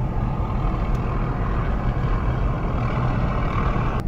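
Steady road and engine noise of a car being driven, heard from inside the vehicle, with a low rumble throughout and a sharp click right at the end.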